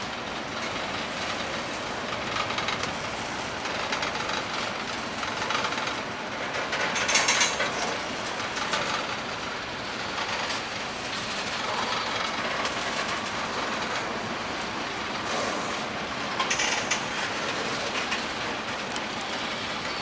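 Freight cars of a passing freight train, gondolas and a tank car, rolling by close at hand: a steady rumble and clatter of wheels on the rails. Two brief louder, sharper surges come about seven seconds in and again about sixteen seconds in.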